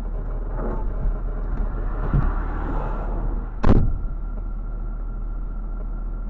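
Steady road and engine noise from a moving car. A single sharp bang comes a little past halfway, followed by a steady high tone that holds.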